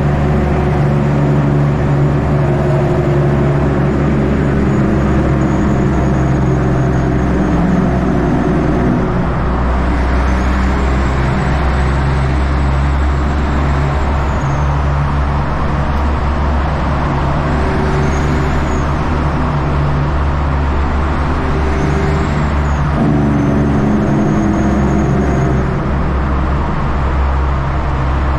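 Caterpillar C-15 diesel engine in a Kenworth truck running steadily in slow traffic. The engine note drops about nine seconds in and climbs again near twenty-three seconds. A faint high whistle rises and falls a few times in between.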